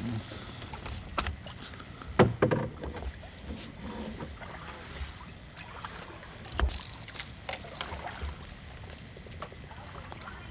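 Canoe being paddled: paddle strokes in the water and several sharp knocks of a paddle against the hull, the loudest about two seconds in.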